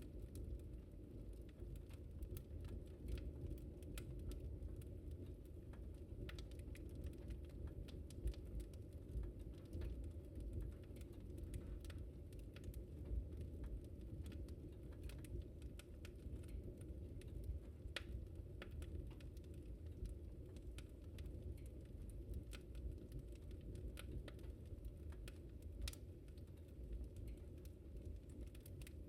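Wood fire crackling in a fireplace: a steady low rumble of burning with frequent small, irregular pops and snaps, a few of them louder.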